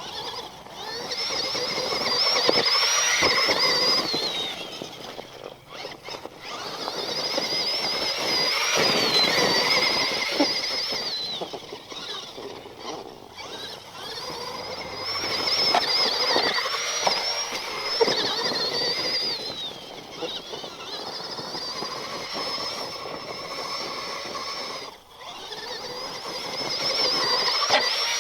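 Axial SMT10 Grave Digger RC monster truck running in repeated throttle bursts: its brushed electric motor and metal-gear transmission give a high whine that rises and falls with speed, five surges of a few seconds each, with a few sharp knocks.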